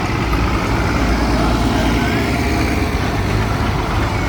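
Heavy diesel vehicle engines running steadily, the tractors and lorries of a tractor run.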